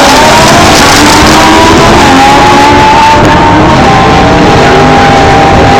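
Camaro drag car's 383 small-block Chevy V8 running hard, loud enough to overload the recording, its pitch holding fairly steady with slight wavering.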